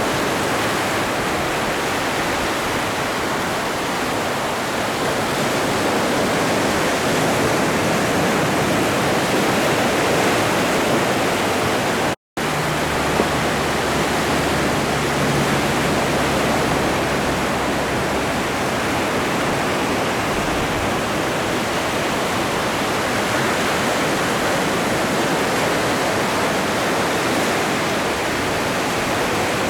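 Atlantic Ocean surf: a steady rush of waves, broken once by a split-second gap about twelve seconds in.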